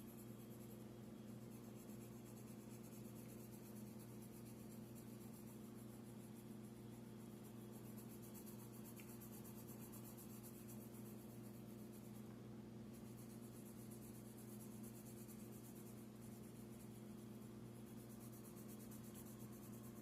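Faint pencil scratching on paper during shading, with a short break about two-thirds of the way through, over a steady low electrical hum.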